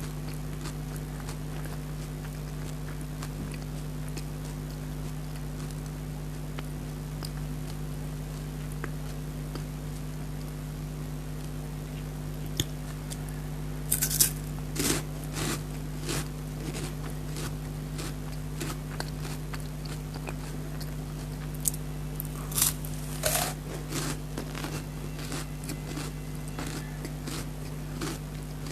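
Crunchy bites and chewing of a Perk chocolate-coated wafer bar, in two short spells, about halfway through and again about three-quarters of the way through, over a steady low hum.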